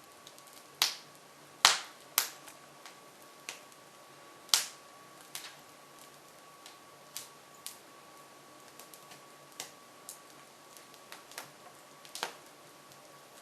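Hardwood logs crackling in a Jøtul F500 cast-iron wood stove with its front doors open, giving irregular sharp pops and snaps, the loudest about two and four and a half seconds in.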